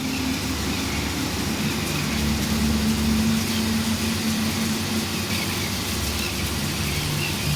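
A vehicle engine running steadily at idle: a low, even hum under a constant hiss.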